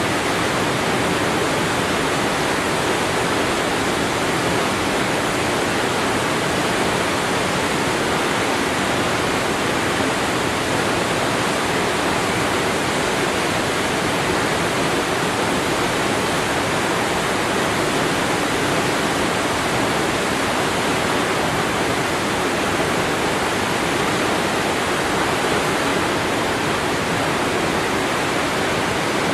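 Waterfall: a steady, continuous rush of falling water, even and unchanging throughout.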